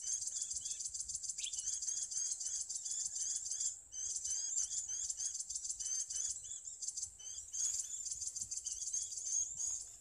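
High-pitched bird chirping: short chirps repeated a few times a second over a steady, rapid high trill.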